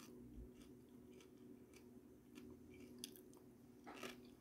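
Near silence with faint chewing of a mouthful of salad: soft, scattered short clicks and crunches, over a faint steady low hum.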